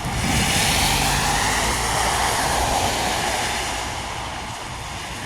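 A vehicle passing on a wet road: tyre hiss and a low engine rumble swell right away and fade over the next few seconds.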